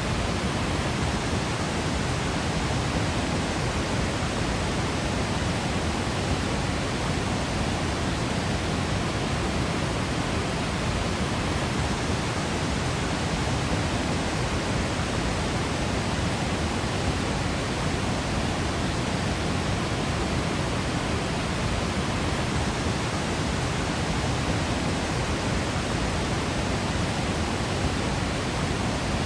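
A waterfall's steady, unbroken rush of falling water, with most of its weight in the low rumble.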